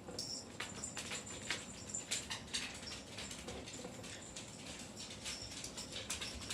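Cockatiel bathing in a shallow dish of water, with small irregular splashes, drips and patters.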